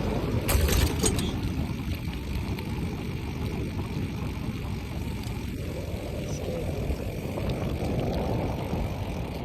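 Steady low rumble of wind on a phone microphone while riding a bicycle, with a few sharp clicks or rattles about half a second to a second in.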